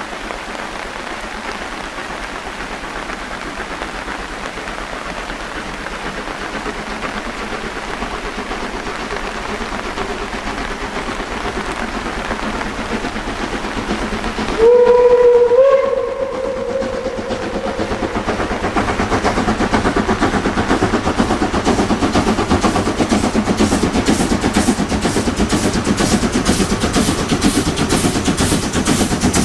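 Steam locomotive 023 058-1 (DB class 23) approaching with its train: a steady rush, then about halfway a loud steam-whistle blast of a little over a second whose pitch steps up partway through. After the whistle the locomotive's exhaust beats grow steadily louder and more distinct.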